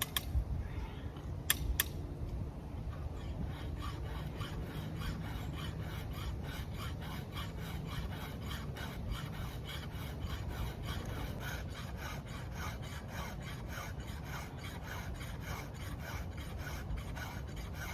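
Chainsaw chain being hand-sharpened with a file: quick, even rasping strokes, about two to three a second, across the cutter teeth, which have dulled and were only batting at the wood. There are two sharp metallic clicks about a second and a half in, before the filing settles into its rhythm.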